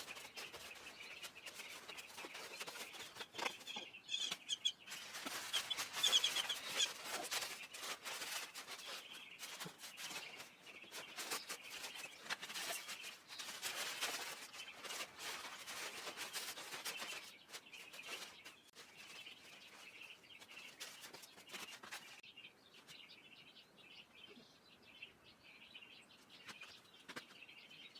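Small birds chirping, with scattered crackling and rustling through the first two-thirds that then dies down.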